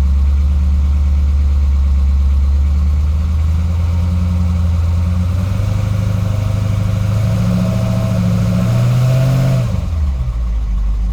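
Hemi V8 engine running in drive, its speed climbing gradually over several seconds and then dropping back to idle near the end. It sounds normal here, without the knock of the broken flex plate: the knock shows in park and neutral and goes away with the transmission in drive, under load.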